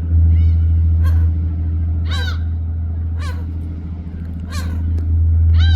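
A bird calling repeatedly, short rising-and-falling calls about once a second, over a loud steady low rumble.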